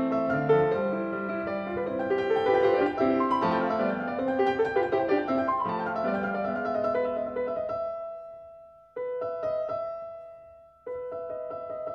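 Background piano music with a moving melody over chords. About two-thirds of the way in it fades away, then comes back in sharply twice with held chords.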